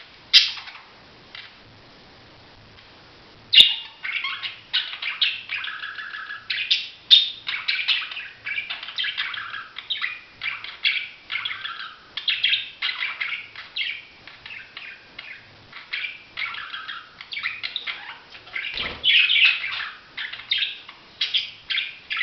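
Budgerigars chattering: a single call, then from about three and a half seconds in a steady stream of quick, high chirps and warbles.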